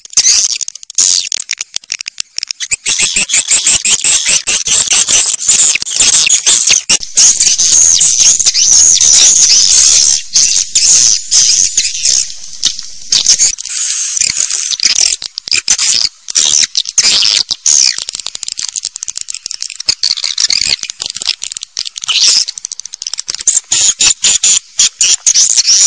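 Edible-nest swiftlets calling: a loud, dense chatter of rapid high-pitched chirps and clicking twitters, with brief dips in loudness. It is the kind of swiftlet recording played in a nesting house to lure the birds in.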